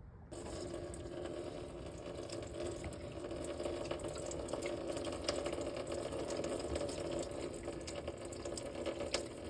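Old engine coolant draining in a steady stream from the opened radiator petcock into a drain pan. It starts about a third of a second in.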